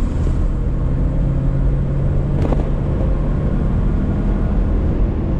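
1965 Ford Mustang's 289 two-barrel V8 running under way on a drive, a steady engine note over road rumble, with a brief sharp click about two and a half seconds in.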